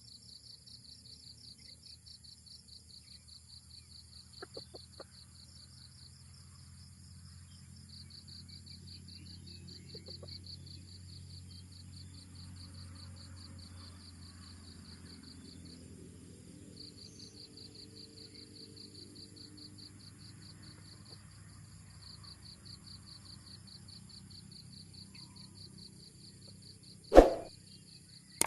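Insects trilling in a steady, fast-pulsing chorus with brief gaps, over a low steady rumble. About a second before the end comes one loud, sharp sound.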